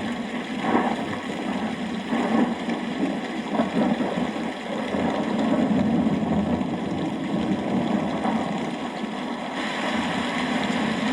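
Rain falling steadily under a continuous low rumble of thunder.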